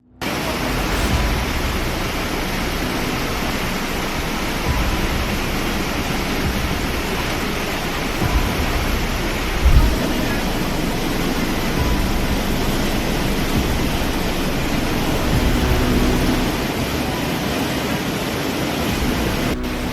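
Flash-flood torrent rushing in a steady loud roar, with low rumbling surges, the strongest about halfway through.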